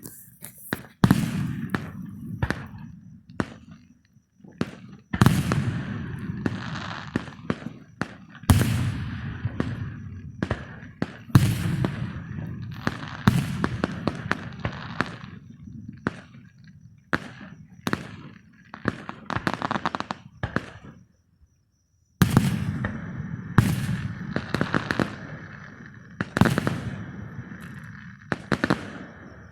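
Fireworks going off: a rapid series of sharp bangs, each trailed by crackling, with a brief silent gap about three quarters of the way through.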